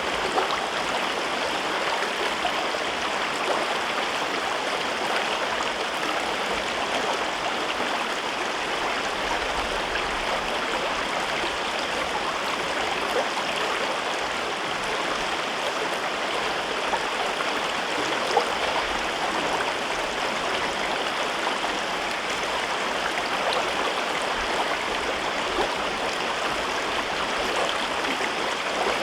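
A mountain river in a rocky gorge flowing and babbling over rocks, a steady rush of water with small splashes and gurgles.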